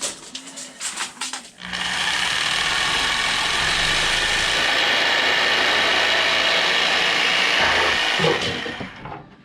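A few clicks and knocks, then a power saw runs steadily for about seven seconds, cutting a piece of trim to length, and winds down near the end.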